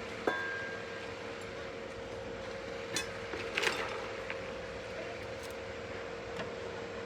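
A steady mechanical hum, with a sharp click about a third of a second in and a few light knocks around three to four seconds in.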